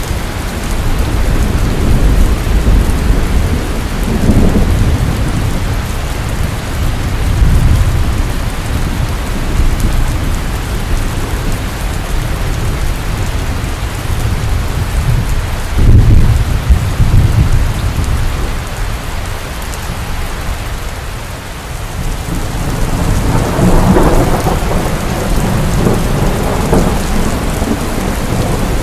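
Heavy rain pouring steadily, with rolls of thunder rumbling deep beneath it several times: near the start, a loud one about halfway through, and another near the end.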